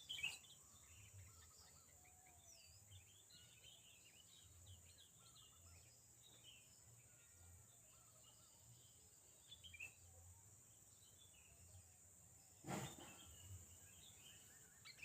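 Faint chirps and short calls of small wild birds, over a steady high-pitched hiss and a low hum. There is one brief louder noise about thirteen seconds in.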